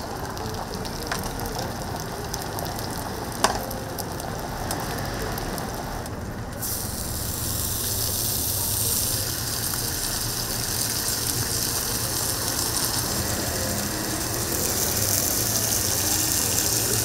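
Food sizzling on a flat toast griddle, with one sharp click about three and a half seconds in; the sizzle turns louder and hissier about seven seconds in.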